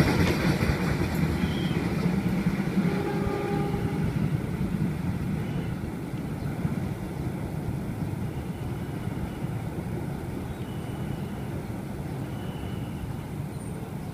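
Passenger train's coaches running past and moving away, the wheel and track noise fading steadily into a low background hum.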